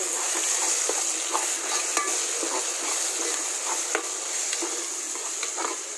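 Chopped onion and tomato sizzling as they fry in oil in a pot, with a spoon stirring them and scraping and tapping against the pot in small scattered clicks.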